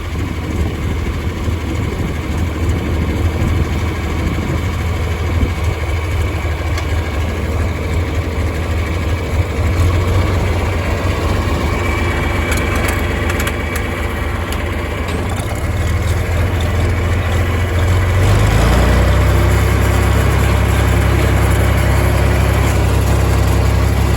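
Tractor engine running steadily, then picking up to a louder, higher speed about eighteen seconds in.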